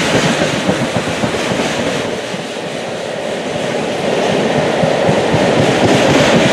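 Long freight train's wagons rolling past, the wheels clattering rapidly over the rail joints under a steady rumble. It eases slightly a couple of seconds in, then grows louder again.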